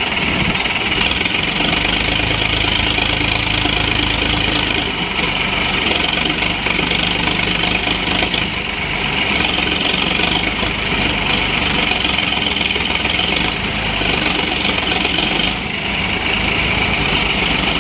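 Tractor diesel engines running steadily and loudly, with brief dips about five, eight and fifteen seconds in.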